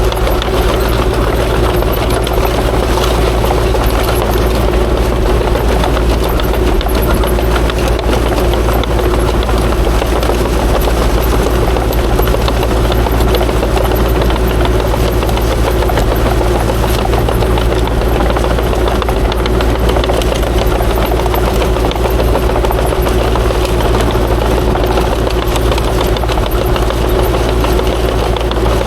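Kubota KX040-4 mini excavator's diesel engine running steadily under work, with a steady tone held over the low engine rumble.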